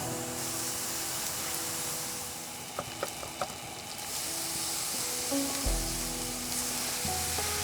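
Marinated pork and pineapple skewers sizzling steadily on a barbecue grill, with a few light clicks near the middle. Soft background music plays underneath.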